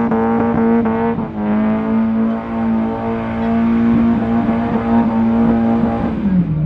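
Car engine held at high revs under load while drifting, its pitch steady; the revs drop near the end.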